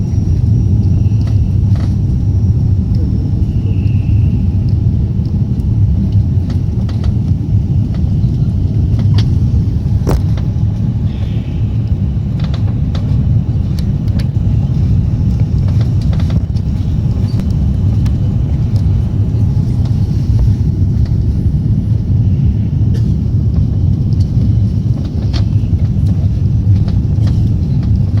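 Steady low rumble of an Airbus A340-300 heard inside the passenger cabin, with a few faint clicks and a sharper click about ten seconds in.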